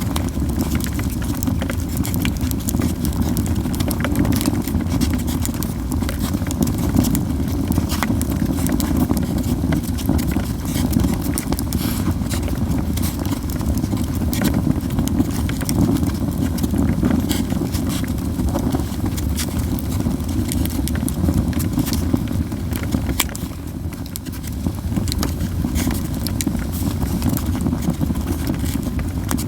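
Wood fire of Japanese yew crackling in a fire pan: irregular sharp pops and snaps over a steady low rumble.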